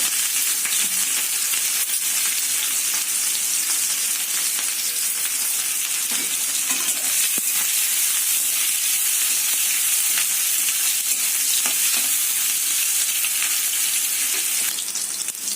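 Onions frying and sizzling in hot oil in a kadai with a steady hiss, stirred now and then with brief scraping strokes.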